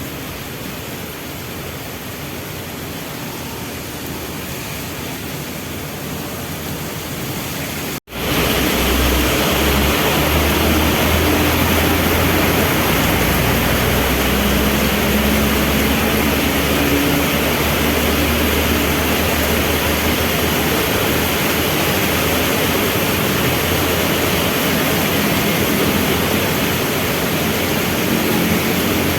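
Heavy rain falling steadily, with a brief dropout about a quarter of the way in. After it the rain is louder and a low, steady engine rumble from vehicles waiting in traffic runs under it.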